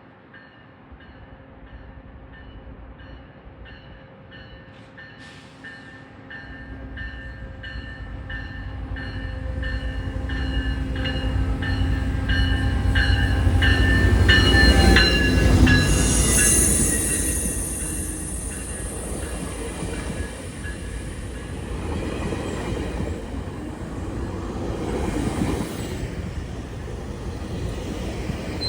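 GO Transit diesel commuter train approaching and running past, its rumble building to a peak about halfway through, while a bell rings in a steady rhythm over the first half. Wheels squeal briefly just after the loudest point, and the train keeps rumbling past afterwards.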